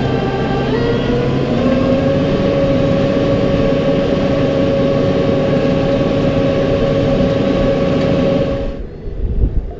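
Tractor engine running. It rises in pitch about a second in, as if throttled up, then holds a steady speed and cuts off near the end.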